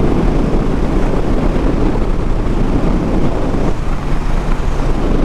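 Motorcycle cruising at road speed: a steady engine drone under a heavy rush of wind on the rider's microphone.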